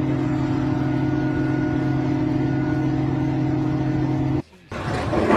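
A machine engine running at a steady pitch, with no revving, that cuts off abruptly about four seconds in.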